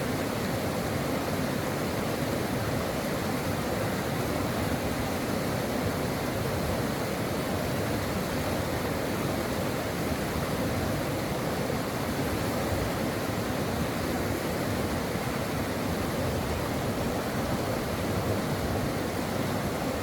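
Brook water flowing, a steady, even rush that does not change.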